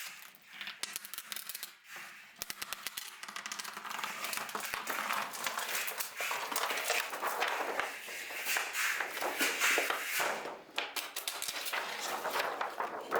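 Plastic film crinkling and crackling in dense, irregular rustles as it is pulled off a freshly set concrete-look wall coating and handled.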